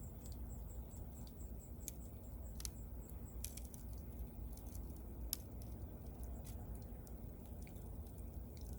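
Wood fire burning, with scattered sharp crackles and pops over a low steady rumble; the loudest pop comes about five seconds in.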